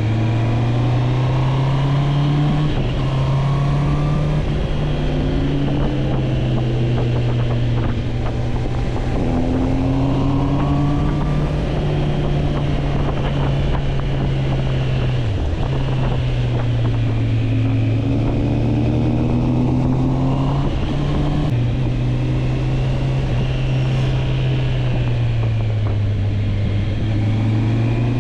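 Motorcycle engine running while riding, its low pitch rising and falling with the throttle and dropping sharply a few times, over a steady rush of wind noise.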